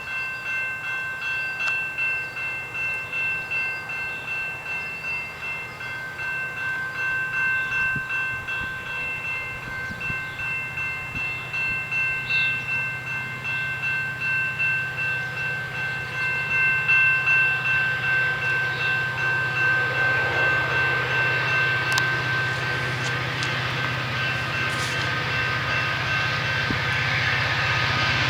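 Railroad crossing bell ringing steadily, about one and a half rings a second, over a low steady hum as a train approaches. From about twenty seconds in, the rushing rumble of the train passing grows louder, with a few sharp clicks from the wheels.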